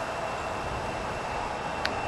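Ex-Canadian National 0-6-0 steam locomotive running light: a steady rush of noise with a faint, high, steady tone, and one sharp click near the end.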